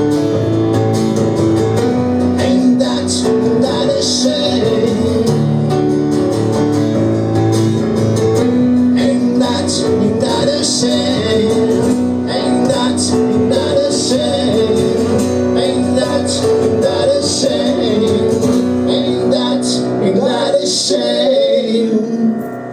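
Live band playing an instrumental passage with guitar, with no vocals; the music dies down near the end.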